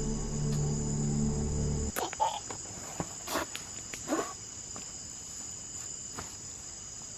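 Background music of low sustained notes cuts off about two seconds in, over a steady, high-pitched chorus of rainforest insects. A few short rustles and knocks follow.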